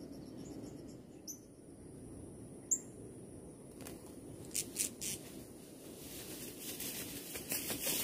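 Faint high pulsed trill with two short, sharp, high-pitched bird chirps, then a run of light rustling clicks that grows busier toward the end, like small wings fluttering.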